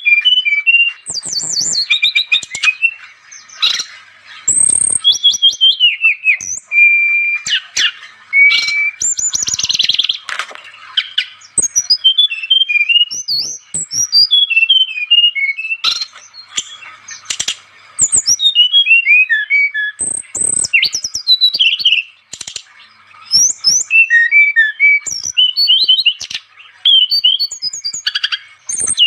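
Brown-chested jungle flycatcher (sikatan rimba dada coklat) singing persistently: rapid, varied phrases of high whistles, chirps and trills, separated by short pauses.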